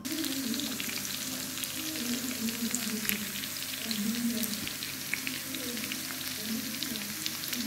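Chopped green garlic frying in hot ghee in a frying pan for a daal tadka. A steady crackling sizzle sets in as the garlic hits the fat at the start.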